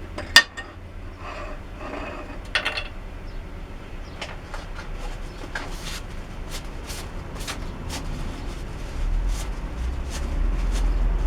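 Workshop handling noises: a sharp metallic click about half a second in, then scattered light clicks and taps as parts and tools are moved. A low hum grows in near the end.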